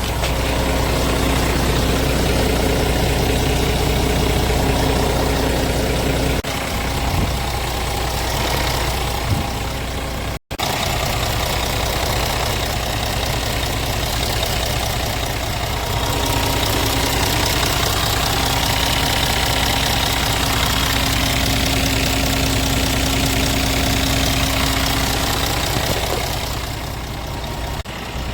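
Scania S410 tractor unit's 13-litre inline-six diesel engine idling steadily. The sound cuts out for an instant about ten seconds in, then carries on.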